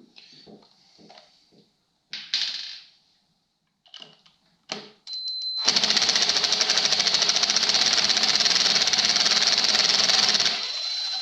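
Impact wrench spinning up with a brief whine, then hammering rapidly for about five seconds as it backs out the Allen head screws holding the stator on a 1998 Polaris RMK 600 snowmobile engine. A few light clicks and knocks of tool handling come before it.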